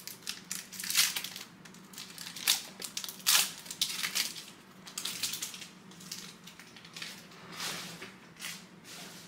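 Plastic and foil card packaging crinkling and rustling as trading cards are handled, in a string of irregular sharp crackles.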